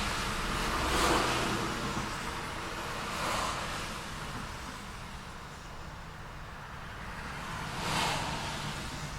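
Street traffic: cars passing one after another over a steady low rumble of road noise, with about four passes that swell and fade, the loudest about a second in.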